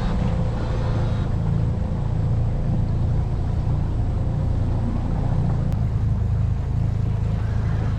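Small boat's motor running steadily as the boat travels, a constant low drone with a faint steady whine above it.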